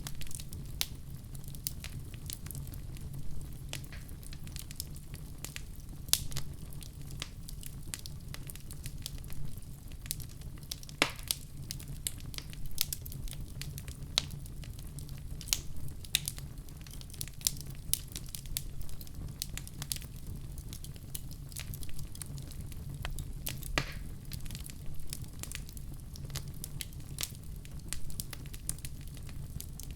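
Wood fire burning in a fireplace: a steady low rumble of flames under frequent irregular crackles and pops, with a few louder snaps scattered through.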